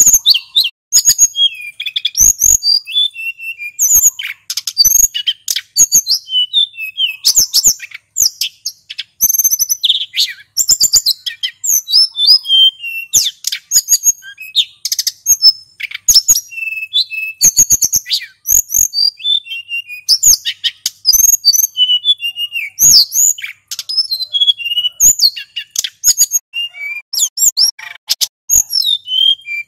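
Male sulingan gunung singing nonstop: a rapid run of high chirps, short whistles and trills that hardly pauses.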